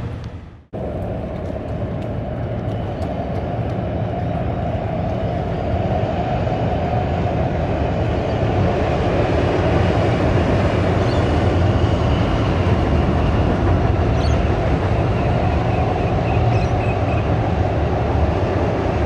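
Electric intercity passenger train crossing a steel girder rail bridge: a steady rumble of wheels on rails, starting just after a brief gap and growing a little louder over the first few seconds.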